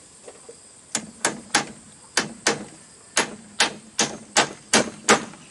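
A hand tool striking bamboo: about eleven sharp blows in quick succession, two to three a second, starting about a second in.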